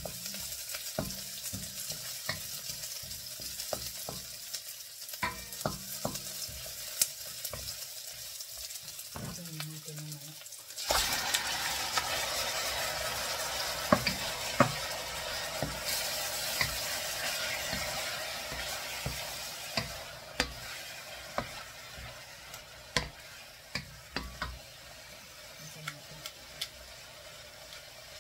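Chopped garlic sizzling in oil in a steel wok, a wooden spatula stirring and clicking against the pan. About eleven seconds in, raw chicken goes into the hot wok and a much louder sizzle starts suddenly, then slowly dies down, with the spatula knocking against the wok now and then.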